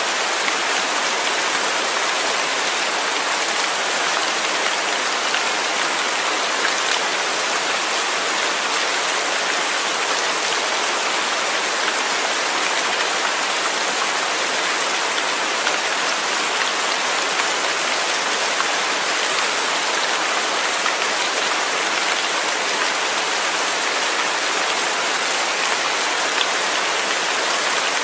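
Steady rain falling, a dense even hiss of drops with occasional faint individual ticks.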